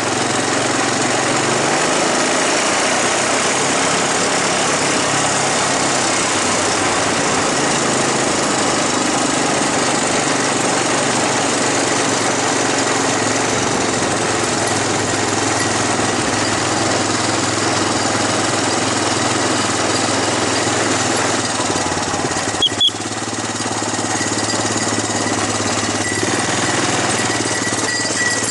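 Engine running steadily at a constant speed, with a short click about 23 seconds in, after which it runs a little quieter.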